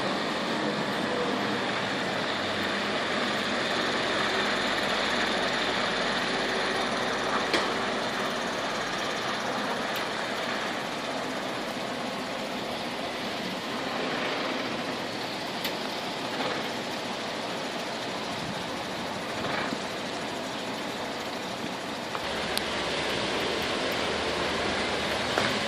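MAN 32.240 dump truck's diesel engine running steadily, with a few short clicks.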